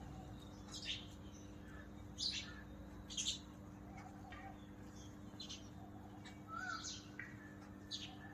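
Faint, scattered short chirps of small birds, one every second or two, over a steady low hum.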